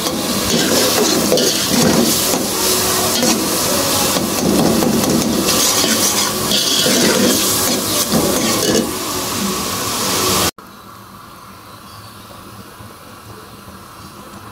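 Matar chicken masala sizzling and frying in an aluminium pot while a metal perforated spatula stirs and scrapes against the pot. About ten seconds in it cuts off abruptly to a much quieter steady hiss from the pot, now with water added.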